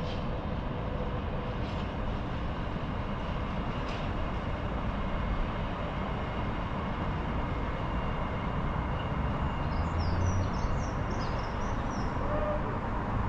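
Container freight train rolling away down the line: a steady rumble of wagons on the rails.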